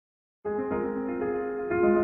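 Silence, then piano music starts suddenly about half a second in and plays on with sustained chords.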